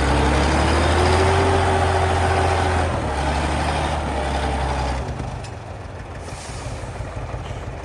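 Heavy log truck engine running hard, its pitch rising slightly, then easing off about five seconds in.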